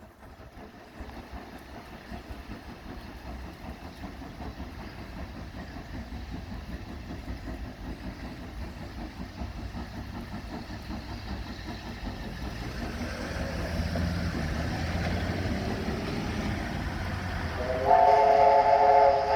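Steam locomotive 3526 approaching, its low rumble building steadily, then its whistle sounding a chord of several tones near the end, the loudest sound here.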